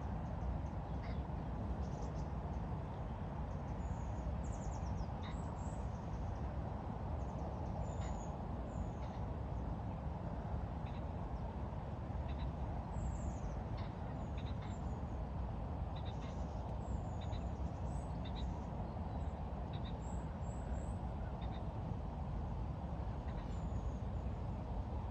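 Small birds chirping and calling now and then, short high notes scattered throughout, over a steady low rumble.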